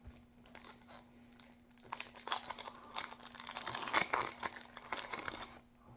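Foil wrapper of a Yu-Gi-Oh booster pack being torn open and crinkled: a run of crackles, loudest in the middle.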